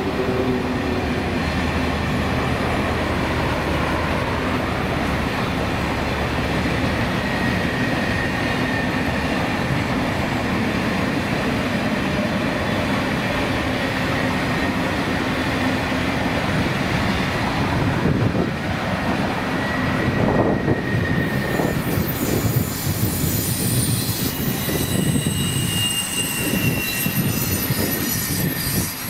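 A train rolling past close by, the steady rumble and clatter of its wheels on the rails. High-pitched wheel squeal joins in during the last third.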